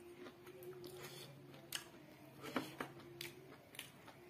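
Eating sounds of a mouthful of rice and chicken: soft, irregular wet clicks and smacks from chewing, the strongest about two and a half seconds in, over a faint steady hum.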